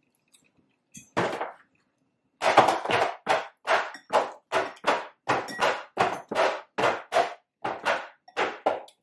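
Close-miked chewing of crunchy food: one crunch about a second in, then steady chewing at about three crunches a second from about two and a half seconds in.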